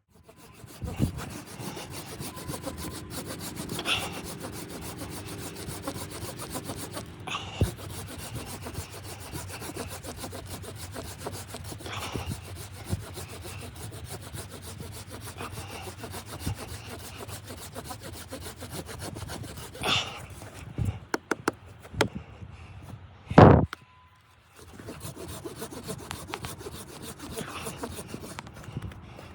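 Steady, finely repeated rasping scrape on wood, with occasional knocks and one loud thump about three-quarters of the way in.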